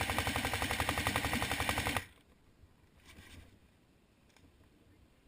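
Airsoft gun firing a long full-auto burst of rapid, evenly spaced shots that stops abruptly about two seconds in.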